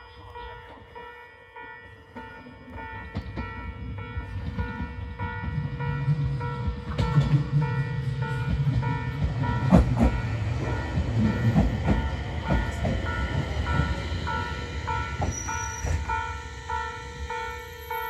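Abukuma Express electric train moving through the station: a low rumble that builds over the first few seconds, peaks with a run of wheel clicks over the rail joints about ten seconds in, then eases off. A steady ringing tone runs underneath, pulsing in even beats later on.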